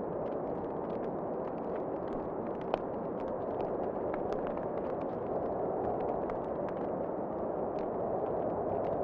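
Wood fire crackling in a fireplace, with scattered small pops and one sharper pop near three seconds in, over a steady rushing of wind.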